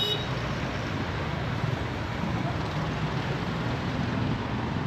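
Steady road traffic noise: vehicles passing along the road, an even rushing hum with no distinct events.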